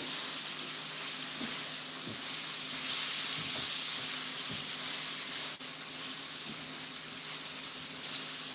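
Sliced steak and bell peppers sizzling on a hot electric griddle, a steady hiss, with a few light taps of a spatula as the food is tossed together.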